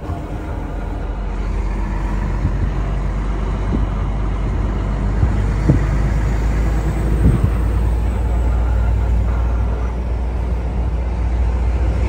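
Heavy truck's diesel engine running with a steady low drone, heard from inside the cab while driving, with a couple of short knocks about halfway through.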